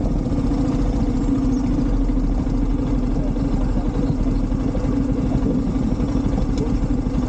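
Single-cylinder motorcycle engine running steadily at an even pitch.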